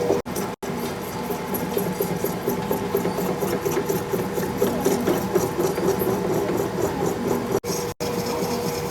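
Metal lathe running with a steady motor hum while the cutting tool rubs and rattles against the steel shaft. The sound drops out briefly twice near the start and twice near the end.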